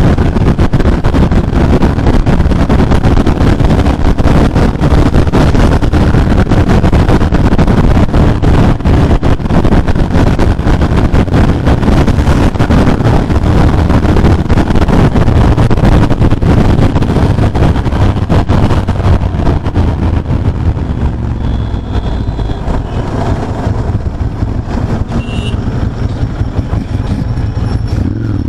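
Ducati Monster 796's air-cooled 803 cc L-twin running hard at highway speed, a loud, pulsing exhaust note. About two thirds of the way through it eases off and grows quieter.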